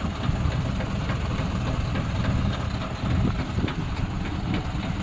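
John Deere 5105 tractor's three-cylinder diesel engine running steadily while it powers the crop sprayer.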